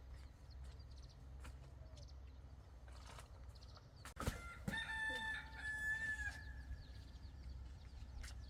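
A rooster crows once, a single held call of about two seconds, starting about four and a half seconds in, just after a sharp knock.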